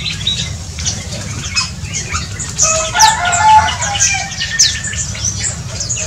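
Several birds chirping: many quick high chirps throughout, with a louder, lower run of calls from about two and a half to four seconds in.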